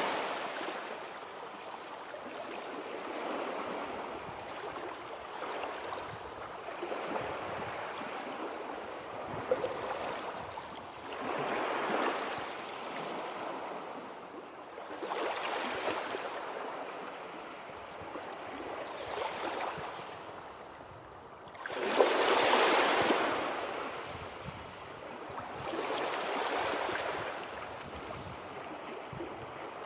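Sea waves breaking and washing on a shore, the surf swelling and ebbing every three to four seconds. The biggest wave crashes in sharply about three-quarters of the way through.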